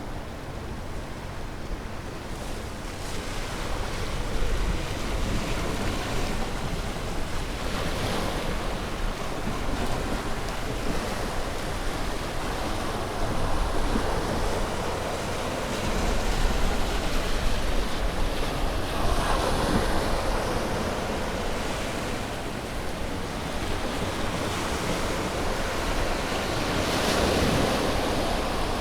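Ocean waves breaking on a beach: a continuous surf wash that swells with each breaker several times, with the wind blowing.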